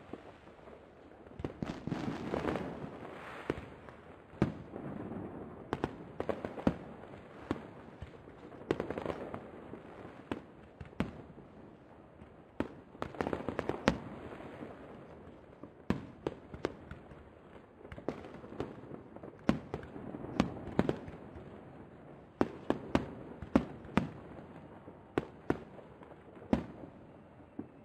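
Aerial fireworks shells bursting: many sharp bangs and booms, some overlapping, with a rolling rumble between them. The bangs come in busier clusters a couple of seconds in, around the middle, and through the last third.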